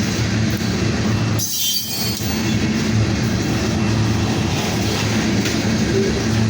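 Loaded freight cars, mostly tank cars, rolling past with a steady rumble of wheels on rail. About one and a half seconds in comes a brief high-pitched wheel squeal.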